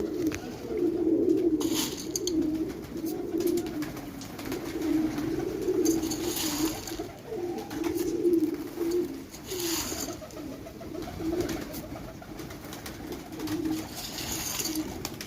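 Pigeons cooing continuously in low, warbling coos that overlap one another, with a few short noisy sounds among them.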